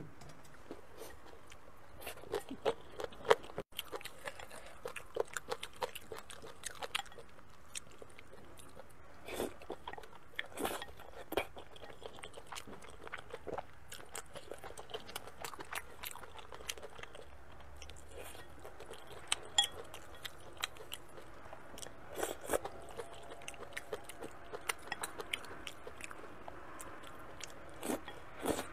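Close-up eating sounds: a person biting and chewing spicy braised food taken from chopsticks, with many irregular short clicks of chewing, and one sharper click a little over three seconds in.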